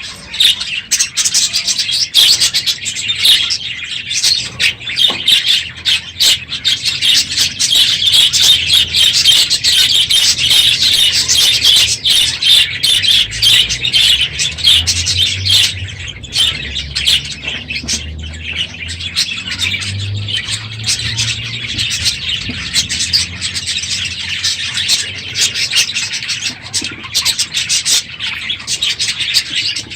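A large flock of budgerigars chattering and chirping all at once, a dense, continuous, loud noise that is heaviest in the first half and eases a little after about twenty seconds.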